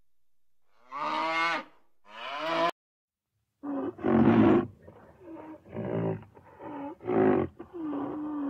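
A cow mooing twice in short calls that bend up and down in pitch. After a brief gap comes a run of short low calls from a large animal, about one a second.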